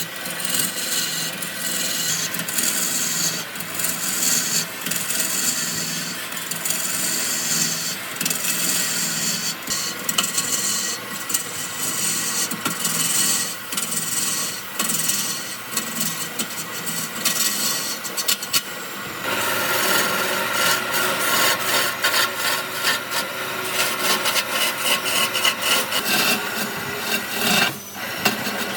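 A hand tool working wood with quick repeated scraping strokes. About 19 seconds in the strokes turn louder and fuller.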